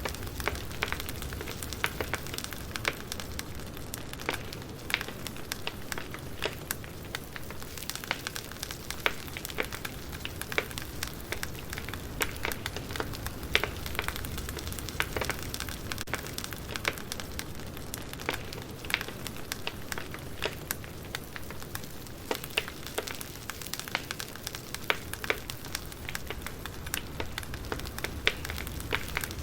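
Wood fire crackling, with frequent irregular pops and snaps over a steady low hiss.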